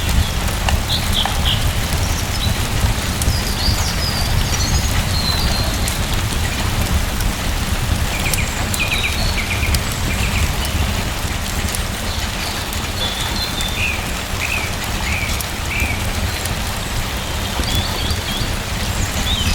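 Steady rain, with short bird chirps coming and going over it.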